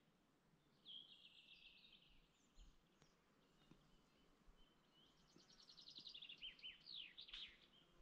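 Faint birdsong: a short run of rapid high chirps about a second in, then a longer rapid trill from about five seconds that ends in several quick downward-sliding chirps.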